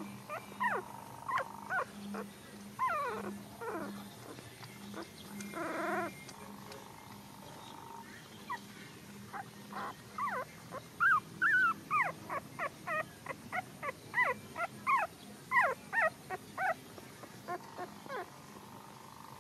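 Puppies whimpering and squeaking in short high-pitched cries, scattered at first, then many in quick succession in the second half.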